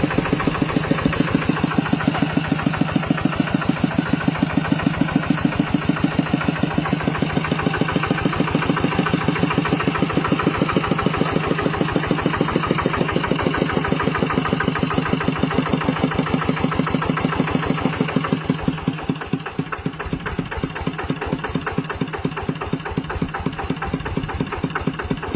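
Kubota 9.5-horsepower single-cylinder diesel engine of a walking tractor running steadily with an even, rapid beat. About 19 seconds in it runs a little quieter.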